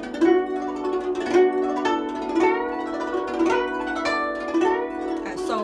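Guzheng played solo: plucked notes about once a second, several bent in pitch by left-hand pressing, with a quick glissando sweep near the end.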